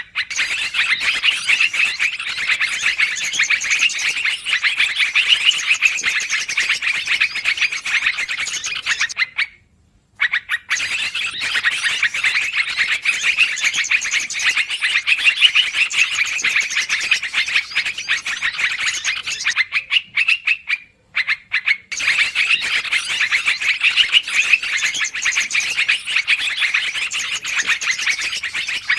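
Lure recording of yellow-vented bulbuls (trucukan) chattering noisily: a dense run of rapid calls that stops briefly twice, about a third and about three quarters of the way through.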